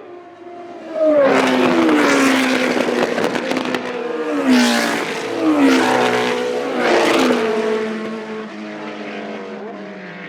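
Historic Formula 1 racing cars passing at speed one after another, about four in quick succession, the engine note dropping sharply as each goes by.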